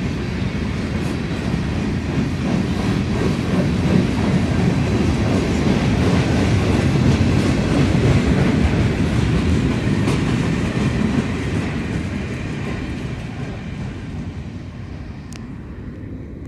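Freight train rolling past on the rails, its wheels clattering over the rail joints. The sound swells, then fades away over the last few seconds as the train moves off.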